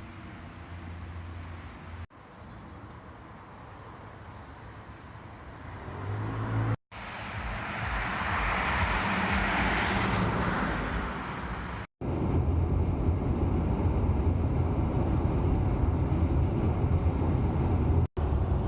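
Car and street sounds in several short clips joined by abrupt cuts: a steady low hum, then a hissing noise that swells and fades about halfway through, then a loud steady low rumble of a car on the road.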